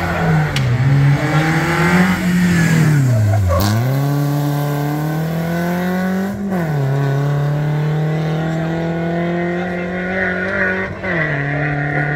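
Rally car engine revving hard under acceleration, its pitch climbing and then dropping sharply at gear changes around the middle and again near the end.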